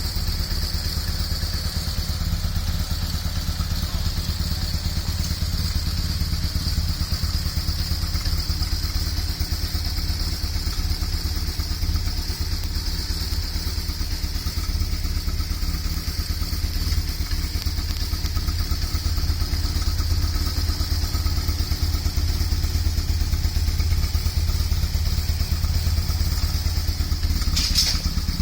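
BMW R1100S air/oil-cooled boxer twin idling steadily through a Staintune aftermarket muffler, with a brief click near the end.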